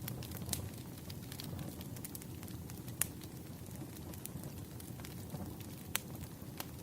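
Wood fire burning with a steady low rumble and scattered sharp crackles and pops, the loudest about three and six seconds in.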